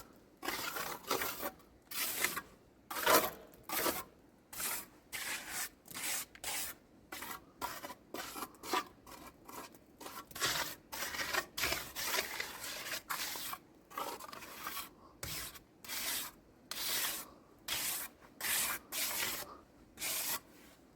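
Rhythmic scraping strokes, about two a second, each a short rasping hiss.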